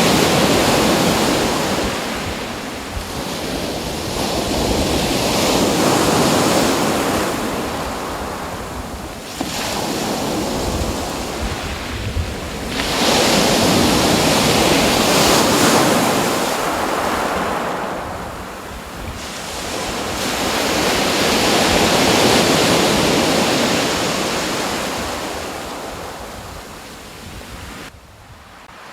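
Ocean waves breaking and washing ashore, the surf swelling and falling away about every seven seconds, with some wind.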